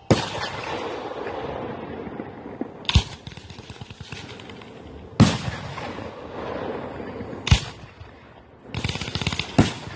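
Aerial fireworks shells bursting: a sharp bang right at the start, then single bangs about three, five and seven and a half seconds in, each trailing off into a fading rumble. Near the end comes a quick run of crackling pops topped by one more bang.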